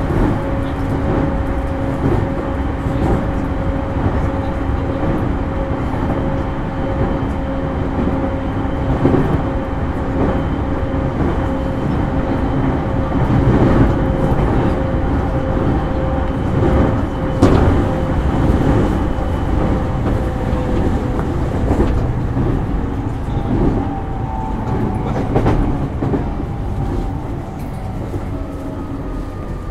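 JR East E231-0 series commuter electric train running, heard inside the car: wheels clacking over rail joints under a steady motor hum. Near the end the motor whine slides down in pitch as the train slows.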